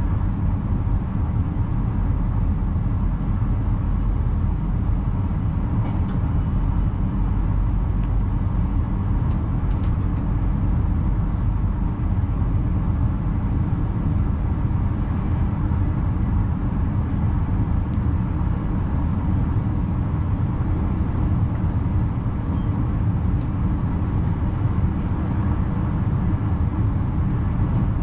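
Steady low rumble of a VIRM double-deck electric train running along the track, heard from the driver's cab, with a few faint clicks.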